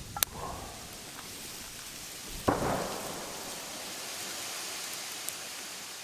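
Campfire crackling and hissing, with a sharp pop just after the start. About two and a half seconds in there is a sudden louder burst that fades over half a second.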